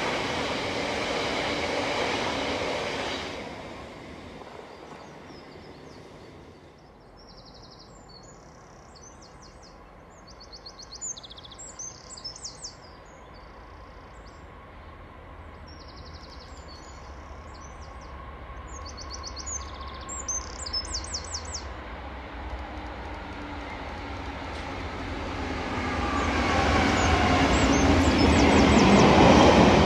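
A loaded freight train's wagons rumble past and fade away in the first few seconds. Small birds then sing in repeated short chirps and trills over a low background hum. From about 24 s a second freight train approaches and grows loud: a Class 66 diesel locomotive's two-stroke V12 engine passes close, followed by the rumble of box wagons.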